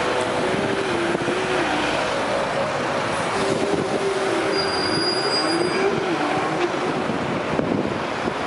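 Steady city street traffic noise with a wavering squeal. The ring of a Big Ben bell strike fades away in the first moments.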